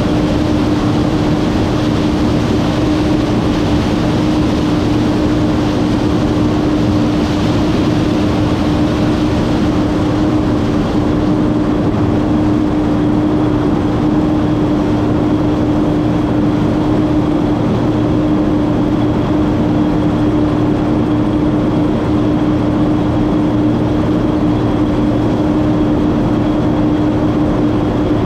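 A Massey Ferguson 9690 combine harvester running steadily: an even machine drone with one strong, unchanging tone, and no change in speed or load.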